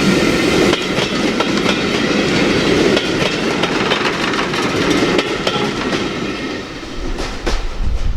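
A train running past, its wheels clicking over the rail joints in a steady clickety-clack. It fades away near the end, when wind on the microphone takes over.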